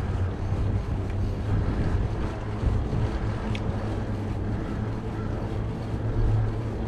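Steady low wind rumble buffeting the microphone of a camera carried on a moving mountain bike, with a faint short chirp about halfway through.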